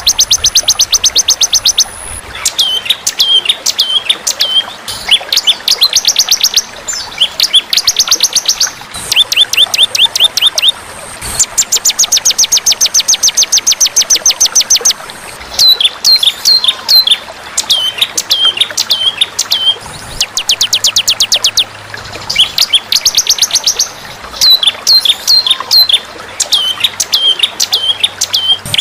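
Recorded songbird calls played as masteran, a training track for caged songbirds. Fast trills of rapidly repeated high notes alternate with runs of short, down-hooked chip notes, in loud bursts of a second or two separated by brief pauses.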